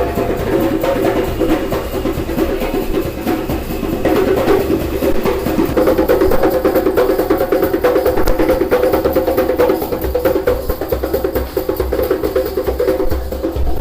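Busker's hand percussion: fast, dense drumming strokes played continuously.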